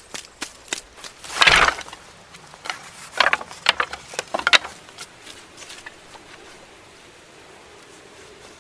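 Irregular crunching and knocking, as of wood and dry leaves being handled and broken: a loud crunch about one and a half seconds in, a run of sharp knocks around three to four and a half seconds, then quieter.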